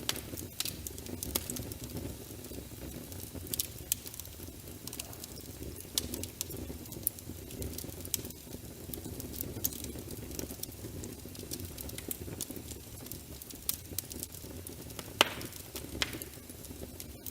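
Wood fire in a fireplace crackling, with scattered sharp pops over a steady low rumble of the flames; the loudest pop comes near the end.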